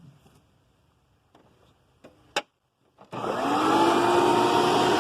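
Faint handling clicks, then a sharp click a little over two seconds in, and about half a second later a vacuum cleaner's motor switches on, spinning up with a rising whine and settling into a steady loud run.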